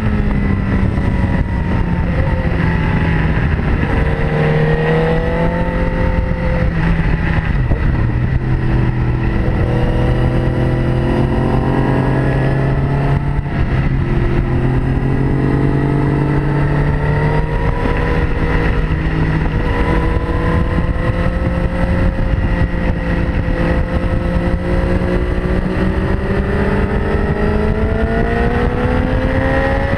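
Sport motorcycle engine heard onboard at track speed, its note falling and rising with throttle and gear changes, climbing steadily through the last third, over heavy wind rush.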